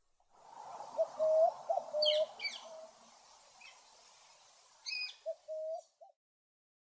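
Wild birds calling: a run of low, level cooing notes, broken by a few short high chirps about two seconds in and again near five seconds.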